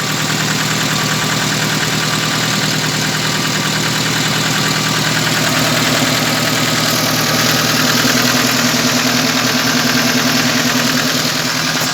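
UMZ-4216 four-cylinder petrol engine idling with a fast, even knock that the mechanic takes for a worn camshaft gear.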